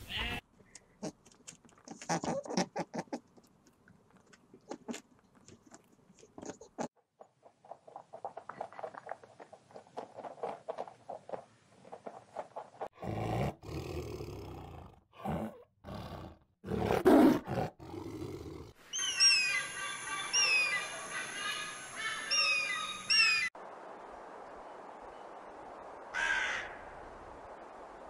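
A string of animal calls. A tiger growls and roars in several loud bursts midway. A small bird then chirps in quick falling notes, and a rook caws once near the end.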